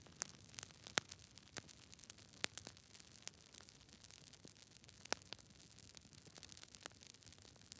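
Campfire burning: wood crackling and popping in irregular sharp snaps over a low steady hiss of the flames.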